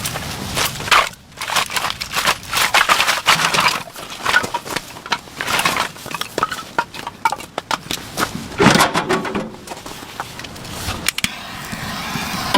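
Handling noise: irregular crinkling, rustling and clicks, with a louder knock about nine seconds in.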